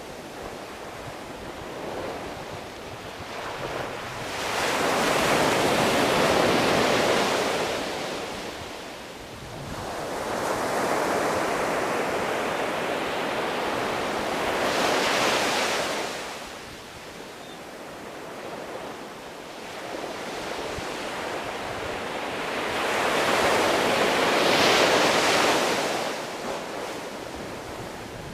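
Sea waves washing in: three slow surges of surf that swell and fade again, with a softer wash of water between them.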